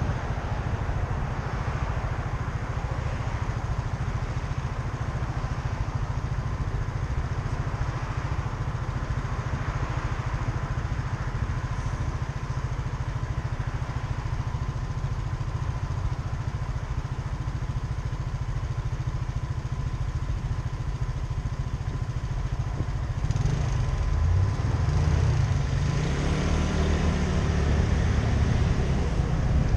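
Motorcycle engine running while riding, a steady low rumble. About three-quarters of the way through it grows louder and its note rises and falls.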